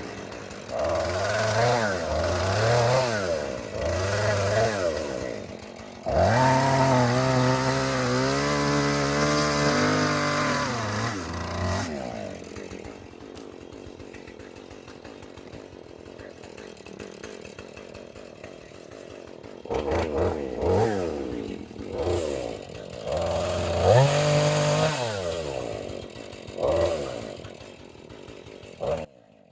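Chainsaw engine revving in repeated bursts, held at high revs for several seconds. It then drops back to a low idle before revving in short bursts again.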